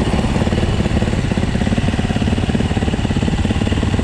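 Several cold four-stroke dirt bike engines, a Yamaha YZ450F, a Husaberg FX450 and a Husqvarna FC 350, idling together as they warm up after a cold start; a steady, rapid, pulsing engine note.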